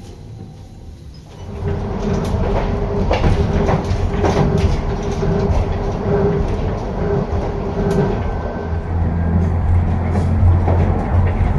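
Hankai Tramway streetcar running on its rails, quieter at first, then about a second and a half in a loud low rumble of wheels and running gear, with scattered knocks and rattles and a steady hum.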